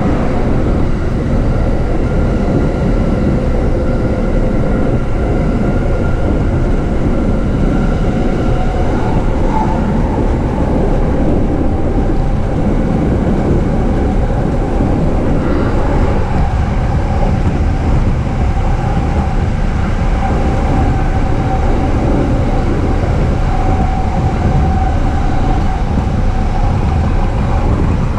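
Steady running noise of a JR East E233-series electric commuter train heard from inside the car: a continuous rumble of wheels on rail with faint steady whining tones above it.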